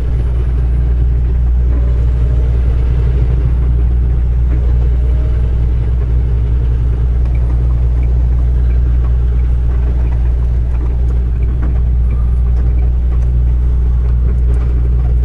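Semi truck driving at speed: its engine and road noise make a steady low rumble.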